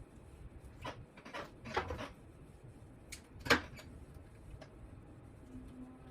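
Small clicks and knocks from hands handling parts and cables on a workbench: a quick cluster about a second in, then one sharper click at about three and a half seconds.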